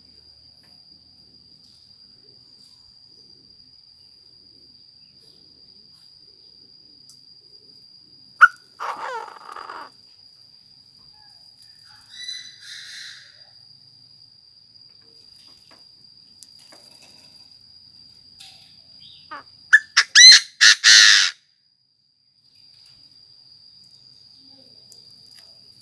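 Decoy Chinese francolin calling: a call about eight seconds in, a faint short one around twelve seconds, and a loud run of sharp notes about twenty seconds in. A thin, steady high-pitched whine runs underneath.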